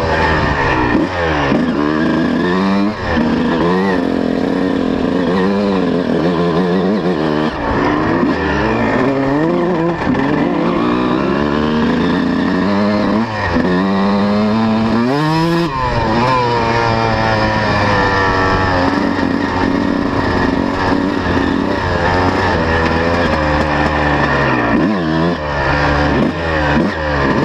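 125cc two-stroke motocross bike engine revving up and down as it is ridden, its pitch rising and falling every second or two, with one high rev about halfway through.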